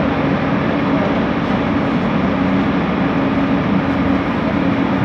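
Bombardier Innovia ART 200 train running, heard from on board: a steady rumble of the moving car with an uneven, droning hum from its linear induction motors, the unusual motor noise this train set makes.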